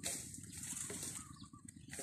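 Faint outdoor ambience with a couple of short, distant bird calls.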